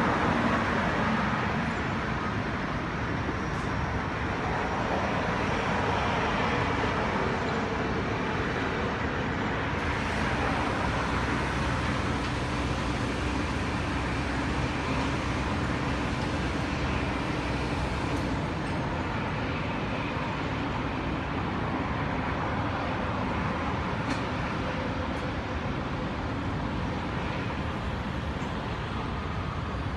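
Steady vehicle noise: a continuous low rumble and hiss, like traffic going by.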